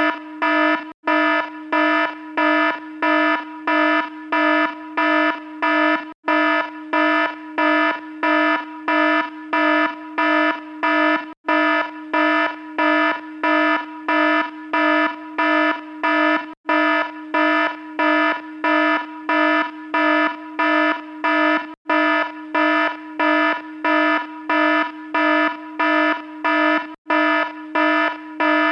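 Electronic alarm buzzer beeping in rapid, evenly spaced pulses, roughly two a second, with a harsh, buzzy low tone and a short break about every five seconds.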